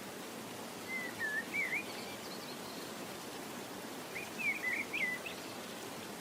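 A small bird chirping in two short warbling phrases of quick up-and-down notes, over a steady hiss.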